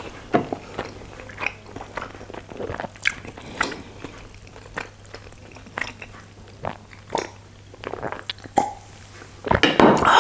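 Close-miked wet chewing and lip smacks of someone eating chicken momo dumplings, in short irregular clicks, with a sip from a glass of cola in the middle and a louder burst near the end.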